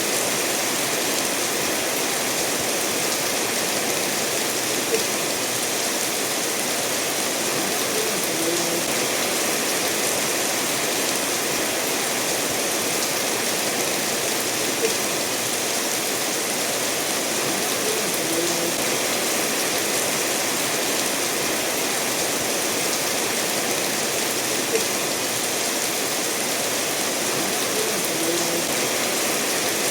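Steady rain falling together with a stream running over stones, an even wash of water noise, with a faint tick about every ten seconds.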